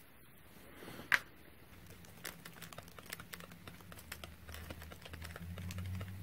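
A sharp click about a second in, then a run of light, irregular clicks and taps from small objects being handled on a workbench, under a low hum that grows louder near the end.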